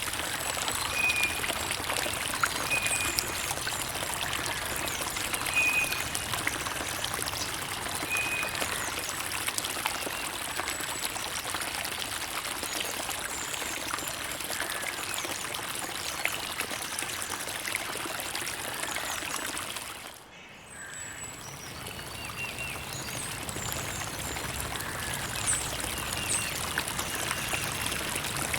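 Creek water trickling and babbling steadily over stones, full of small splashes and gurgles, with a few faint short bird chirps. About twenty seconds in the water sound briefly drops away, then swells back.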